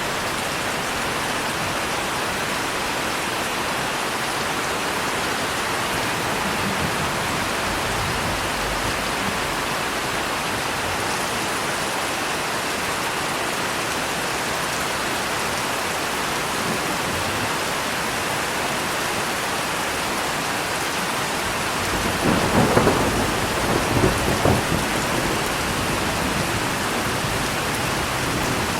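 Steady rain falling, with thunder rumbling: faint low rolls early on and a louder peal with crackling about 22 seconds in that fades over a few seconds.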